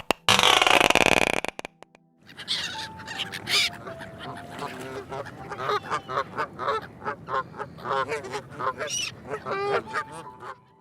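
A flock of waterfowl calling, with many short, pitched calls overlapping in quick succession. Before that, a loud, harsh noise cuts off about a second and a half in.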